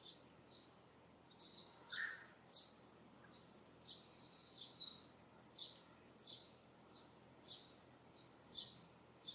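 A songbird calling in a steady series of short, high chirps that fall in pitch, about one to two a second, with one lower call from another bird about two seconds in.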